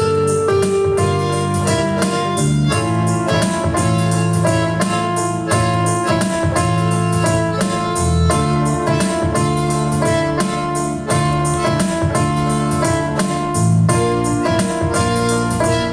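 Instrumental ensemble music: keyboard and guitar playing a steady rhythmic melody over a bass line.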